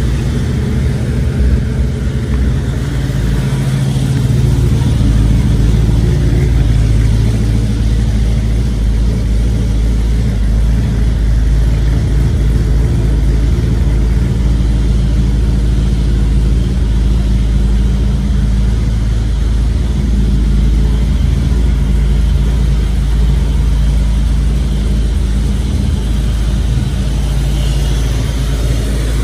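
1962 Chevrolet Nova's engine running just after a cold start, settling into a steady idle with a deep exhaust rumble.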